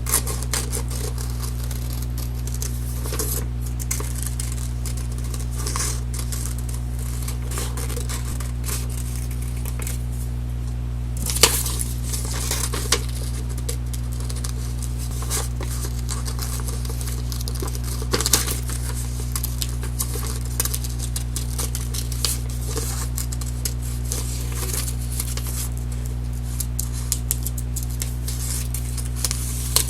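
Scissors snipping through paper in many short, irregular cuts, with paper rustling as the cut-out shapes are turned. A steady low electrical hum runs underneath.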